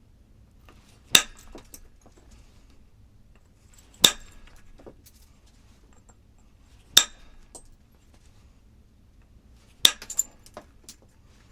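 Four sharp, glassy clinks of hard objects striking, evenly spaced about three seconds apart, the last followed by a few lighter taps.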